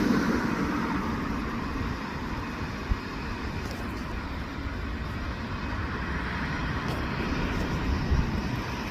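Jet airliner's engines running on approach, heard through strong gusty wind buffeting the microphone, with one sharp knock about three seconds in.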